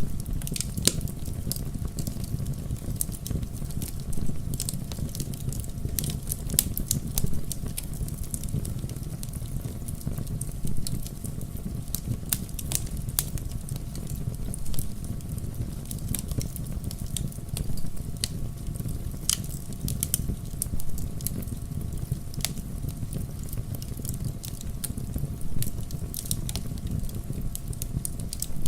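Wood fire burning in a fireplace, a steady low rumble of flames with sharp crackles and pops at irregular intervals.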